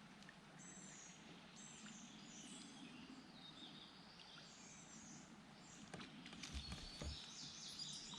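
Quiet outdoor ambience with faint, high bird chirps repeating throughout, and a couple of soft low thumps about two-thirds of the way through.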